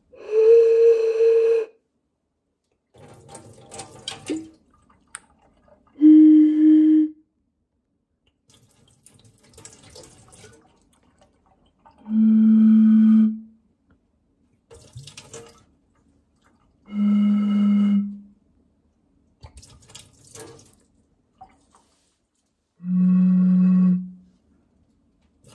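Five steady blown tones across the mouths of bottles, each about a second and a half long, each lower in pitch than the one before. Quiet clinks and handling noise of the bottles fall between them.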